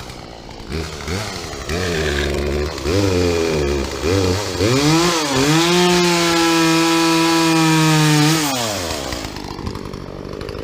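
Chainsaw engine revving up and down several times, then held at high speed for about three seconds before dropping back to idle.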